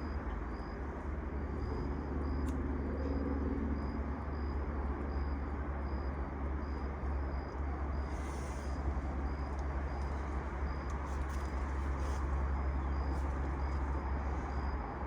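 Steady low outdoor rumble with a faint, regularly repeating high-pitched pulse.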